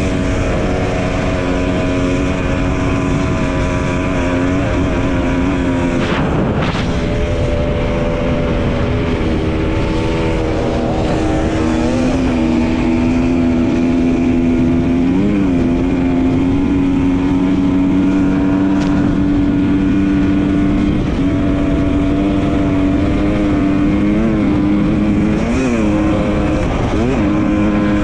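Dirt bike engine running at fairly steady revs while riding, with a few brief rises and dips in pitch. There is a knock about six seconds in.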